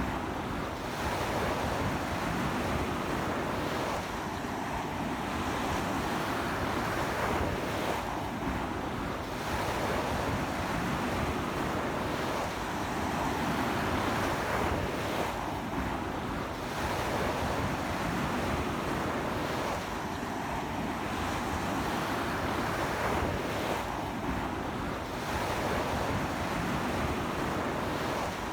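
Sea waves breaking and washing up on a beach in strong wind: a continuous rushing surf that swells and eases every few seconds, with wind rumbling on the microphone.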